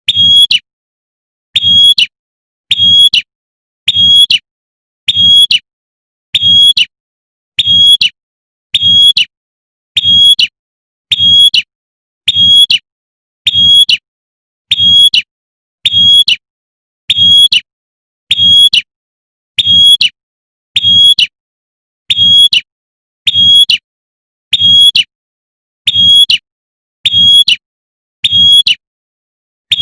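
Female prinia (prenjak) giving the same short high call over and over, about once every 1.2 seconds, each note with a low thud under it. This is a 'tembakan' lure call of a female calling a male.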